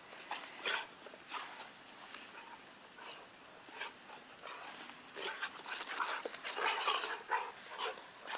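Weimaraner dog playing, whining and panting in a run of short sounds that are busiest about two-thirds of the way through.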